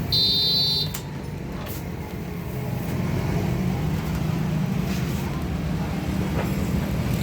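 A steady low mechanical hum, with a short, high-pitched electronic beep just after the start.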